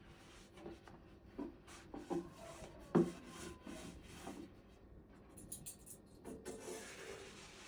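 Soft rubbing and scraping with several light knocks as things are handled, the sharpest knock about three seconds in.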